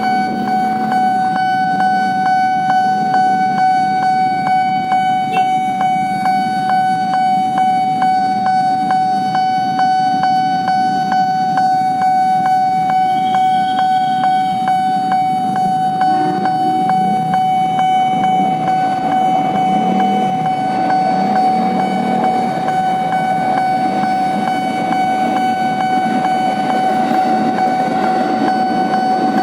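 Railway level crossing warning signal sounding continuously: a steady ringing tone with a fast, regular beat, over road traffic, while the crossing waits for an approaching train.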